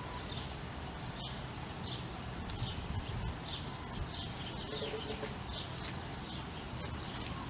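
Faint bird chirping: short high calls repeating irregularly, over low steady room noise.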